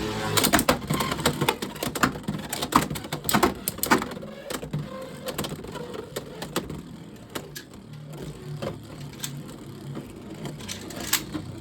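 Two Beyblade X spinning tops whirring and clashing in a plastic stadium: rapid sharp clacks of collisions at first, growing sparser through the battle over a steady spinning whir.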